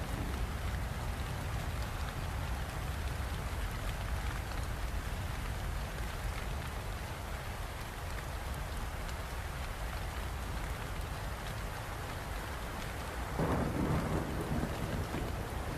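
Steady heavy rain falling, with a deep low rumble underneath and a louder roll of thunder about three-quarters of the way through.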